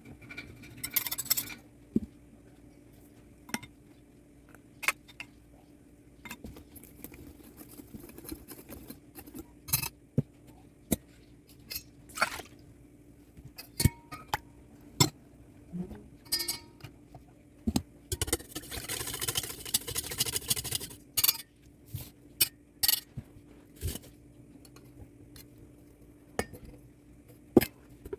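Kitchen utensils and dishes clinking and knocking, many separate sharp strikes, with a stretch of scraping noise about two-thirds of the way through.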